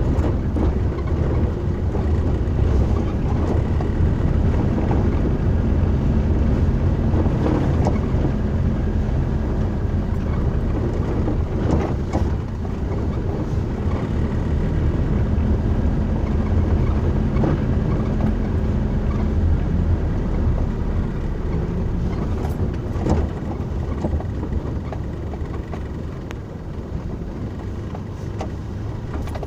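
Steady low rumble of a moving vehicle heard from inside, with a few scattered sharp knocks.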